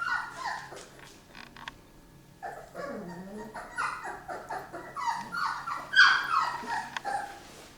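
Dog whining and yelping: many short, high-pitched cries that fall in pitch, in quick runs, with the loudest about six seconds in.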